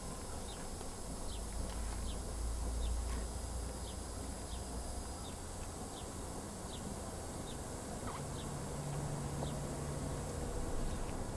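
A small bird chirping, a short high note repeated about twice a second, over a low street rumble. A low steady hum comes in for a couple of seconds near the end.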